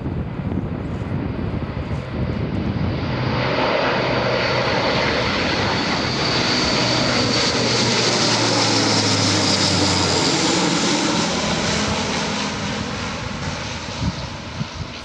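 Military aircraft flying past overhead: engine noise swells to a peak about eight to ten seconds in, drops in pitch as it passes, and fades away.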